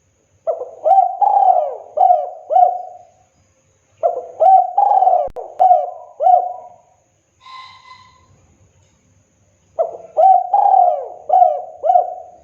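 Spotted dove singing its cooing song: three phrases of about five coos each, a couple of seconds apart. A brief, faint higher whistle comes between the second and third phrases.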